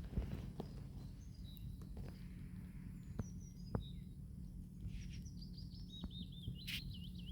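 Birds chirping and calling over a steady low rumble, with a quick up-and-down warbling trill near the end. A few sharp clicks sound now and then.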